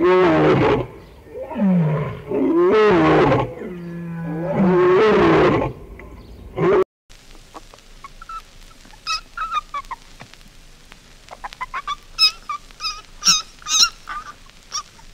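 Big cat roaring, about four long, loud roars that rise and fall in pitch, cut off suddenly about seven seconds in. After the cut come many short, high-pitched calls from another animal, growing thicker near the end.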